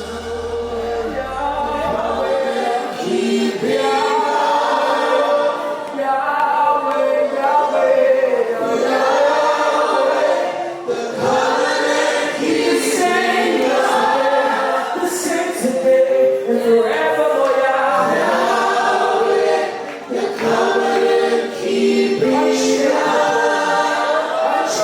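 A group of voices singing a worship song together, fading in at the start.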